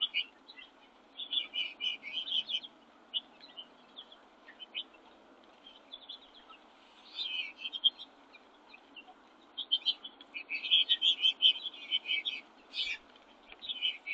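Small backyard songbirds chirping and calling, in clusters of short, high chirps that are busiest in the last few seconds, over a faint steady background hiss.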